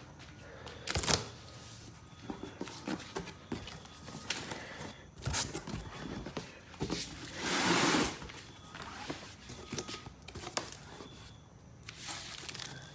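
A cardboard shipping box being opened by hand: tape tearing and cardboard flaps and packing material scraping and rustling, with one loud rip about eight seconds in.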